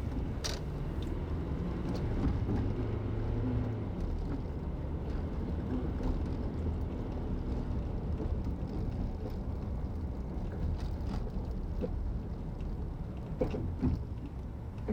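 Car driving, heard from inside the cabin: a steady low hum of engine and tyre road noise, with a short click about half a second in and a couple more near the end.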